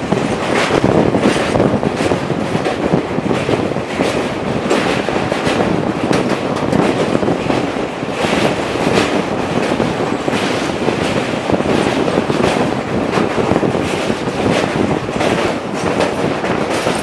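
A train's wheels rumbling and clacking as it crosses a steel truss railway bridge, heard from the window of the moving coach. The rumble is steady and loud, with frequent sharp clacks from the rail joints.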